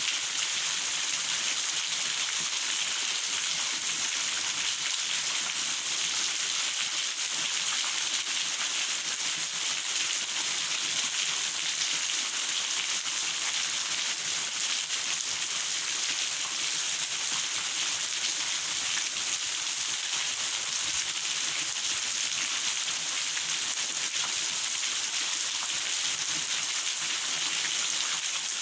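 Steady rain falling, a constant even hiss that does not let up.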